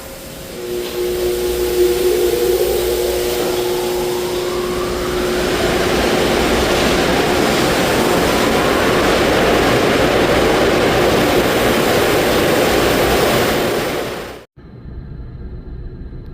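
Car wash dryer blowers spinning up into a loud, steady rush of air, with a whine that rises in pitch over the first few seconds. The sound cuts off suddenly near the end, leaving a quieter, low, steady hum.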